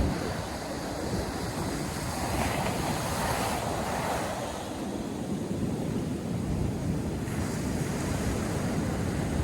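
Ocean surf breaking and washing on a sandy beach, with wind buffeting the microphone as a low rumble. A wave's wash swells up around the middle and eases off.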